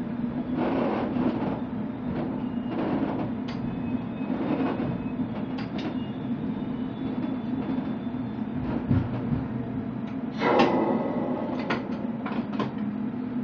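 Commuter train running along the track: a steady hum under the rumble of the wheels, with repeated clattering bursts and one louder metallic burst about ten seconds in.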